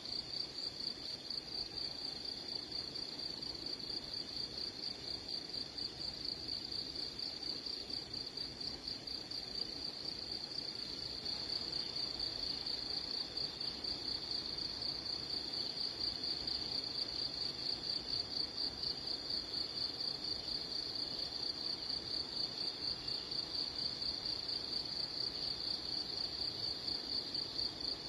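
Insect trilling: one steady, high-pitched trill made of fast, even pulses, continuous throughout and a little louder from about halfway.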